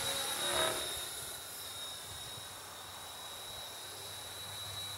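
Radio-controlled model helicopter in flight, giving a steady high-pitched whine.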